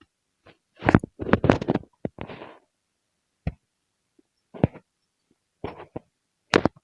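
A series of irregular thuds and knocks, a loud cluster about a second in and then single knocks every second or so, with dead silence between them.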